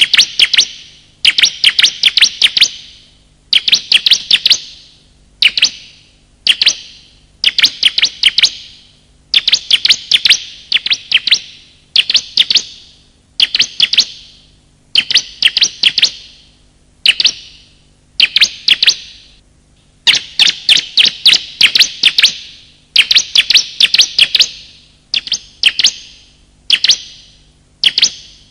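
Bar-winged prinia (ciblek) calling in a bird-lure recording: repeated bursts of rapid, sharp, high chirps, each about a second long and coming roughly every second and a half.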